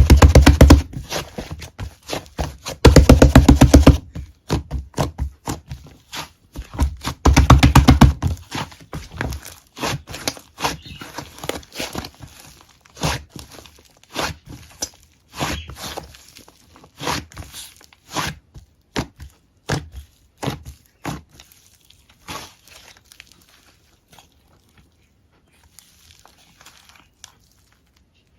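Slime being squeezed and pressed by hand: three loud runs of rapid crackling clicks in the first eight seconds, then slower, scattered pops that thin out and fade near the end.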